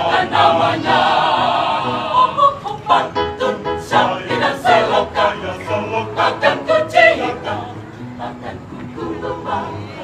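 Mixed choir singing a hymn in harmony, swelling in the first few seconds and growing softer near the end.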